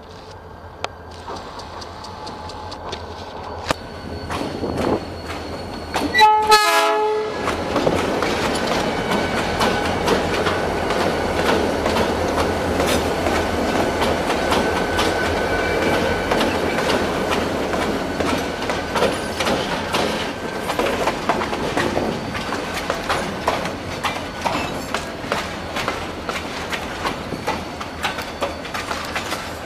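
Diesel freight train with several locomotives approaching and passing close by: a short horn blast about six seconds in, then the running locomotives and a steady clatter of clicks from wheels over the rails as the hopper wagons roll past.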